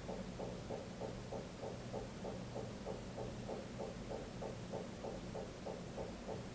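Steady low hum with a regular pulsing, about four beats a second.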